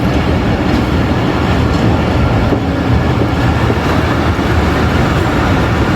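Jaffar Express passenger train running along the track, a steady loud rumble of wheels on rails.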